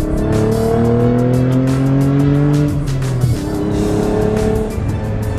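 1990 Nissan 300ZX's naturally aspirated V6 engine accelerating hard, heard from inside the cabin: the revs climb for almost three seconds, drop at an upshift, then climb again in the next gear, with the freshly replaced clutch taking up the drive.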